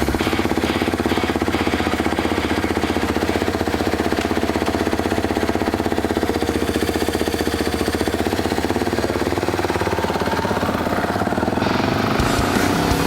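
Motorcycle engine idling with a rapid, even pulse. The sound changes slightly near the end.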